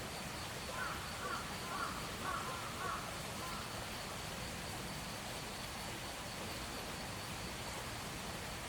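A bird calls five or six times in quick succession within about the first three seconds, over steady outdoor background noise with a faint constant high-pitched tone.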